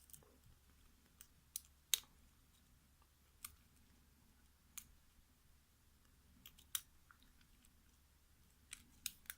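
Faint, scattered clicks of a lock pick and tension wrench working the pins of a mortise lock cylinder, about a dozen irregular ticks as pins are lifted and set.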